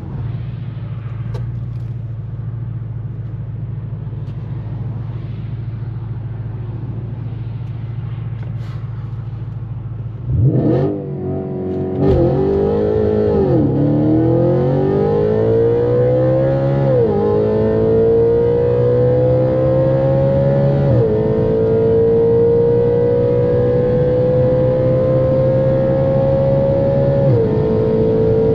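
Straight-piped Audi RS5's 4.2-litre V8 running at a steady low drone. About ten seconds in, the revs jump and it accelerates hard, its pitch climbing slowly and dropping briefly three times at the upshifts.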